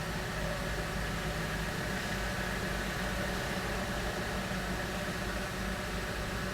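Steady engine hum with a few constant tones and no change in level, like a vehicle engine idling while waiting to drive off a car ferry.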